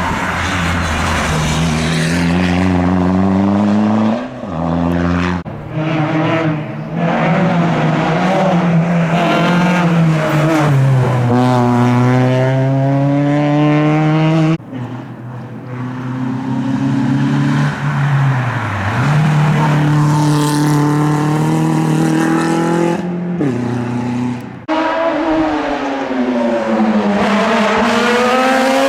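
Hill-climb race cars at full throttle, engines revving hard up through the gears and dropping at each shift, with cars going by one after another and abrupt cuts from one run to the next.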